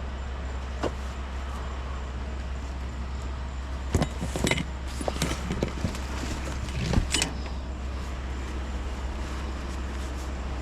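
Items clattering and rattling as they are handled and sorted, with several sharp knocks between about four and seven seconds in, over a steady low hum.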